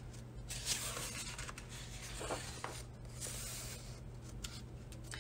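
Paper pages of a thick colouring book being turned and handled: soft, irregular rustling and sliding, over a faint steady low hum.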